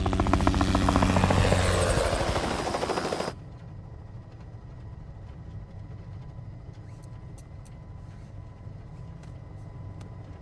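Helicopter rotor chopping loudly with a fast, even beat over a low engine drone. About three seconds in it drops suddenly to a much quieter, steady low drone.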